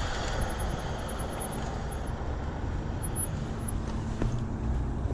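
Steady wind and road rush while riding an electric bike, heaviest in the low end, with a faint steady hum from about three and a half seconds in.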